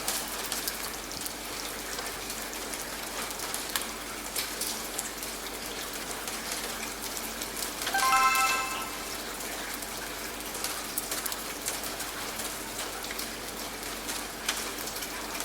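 Steady rain falling, with scattered drip ticks. About halfway through, one short pitched beep sounds: the workout timer's interval signal.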